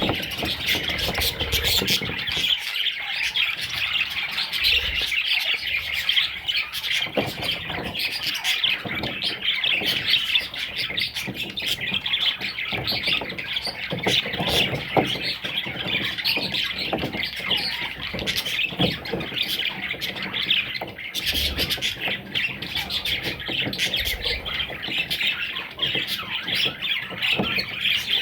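Budgerigars chirping and squawking continuously, a dense chatter of many overlapping high calls with sharper squawks scattered through it.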